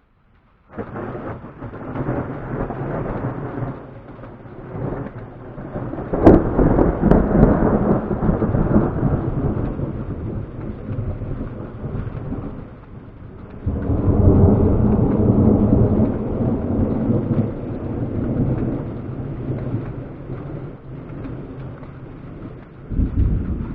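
Thunder following a lightning strike: after a second of quiet a low rumble starts, breaks into a sharp crack about six seconds in that is the loudest moment, and keeps rolling in long waves, with another heavy swell around fourteen seconds and a smaller one near the end.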